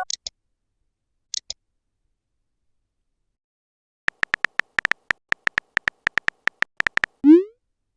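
Electronic-sounding effects: a few short high chirps at the start, then a gap of silence, then a rapid run of identical clicks, about seven a second, for some three seconds, ending in a short rising beep.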